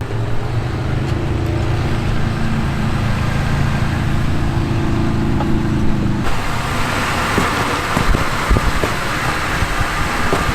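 Off-road truck engine running steadily. About six seconds in it gives way abruptly to a noisier rushing sound with scattered knocks.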